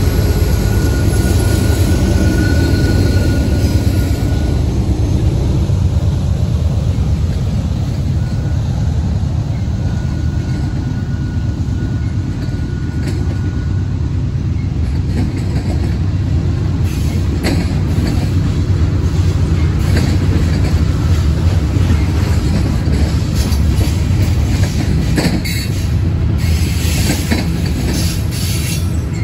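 Freight train passing close by: a diesel locomotive's engine rumble at the start gives way to a long line of covered hopper cars rolling past, with steady wheel-on-rail noise. A faint thin wheel squeal comes and goes in the first half, and a few sharp clacks sound near the end.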